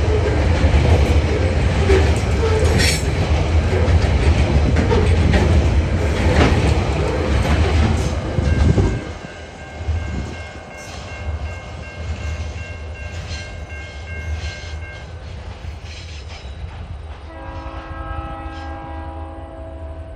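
Coal train hopper wagons rumbling and clacking over the level crossing. The last wagon passes about nine seconds in, and the sound drops to a fainter rumble as the train moves away, with a high steady squeal for a few seconds. Near the end a distant locomotive horn sounds a chord for about three seconds.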